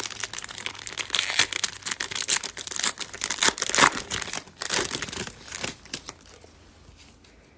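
Plastic-foil trading-card pack wrapper crinkling and being torn open, a dense crackle of handling for about six seconds that dies away near the end.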